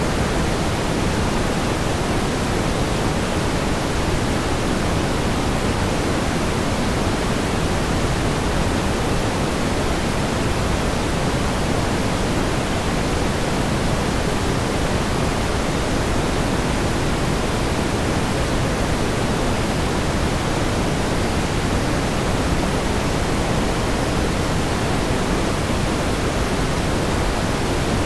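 Steady pink noise: an even, unchanging hiss, heavier in the low end and softer toward the top.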